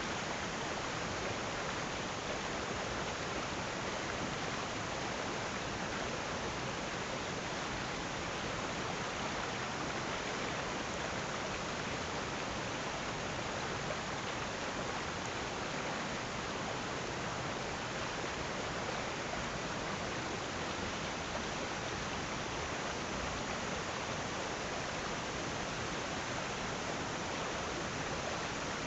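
Flowing water rushing steadily, an even hiss with no rise and fall.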